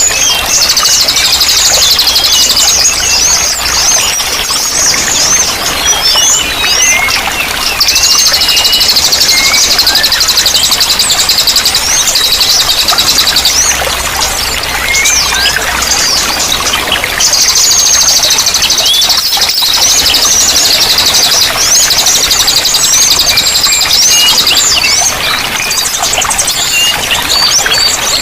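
A mix of songbirds singing: long, fast, high-pitched trills lasting several seconds, three times, among many scattered short chirps and whistles, over a steady wash of running water.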